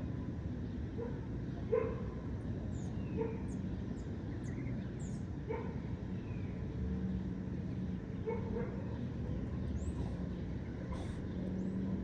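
A dog barks several times in short single barks over a steady low traffic rumble, while birds give brief high chirps.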